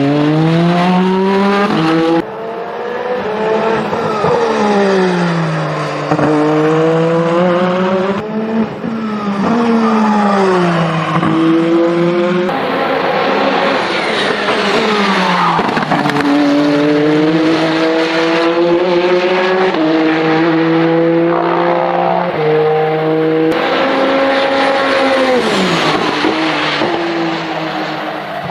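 Peugeot 9X8 hypercar's twin-turbo V6 running hard on track, its pitch climbing through the gears and dropping on downshifts over and over. Several shots are spliced together, so the engine sound changes abruptly a few times.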